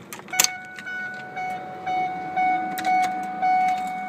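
A key clicks into the ignition of a 2002 Ford Expedition, then the dashboard warning chime sounds: one steady high tone that pulses about twice a second, the reminder that the key is in the ignition.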